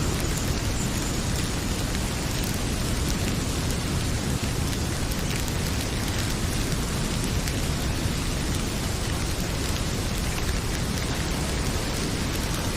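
Heavy rain pouring steadily, mixed with the occasional faint crackle of a wood fire in a fireplace.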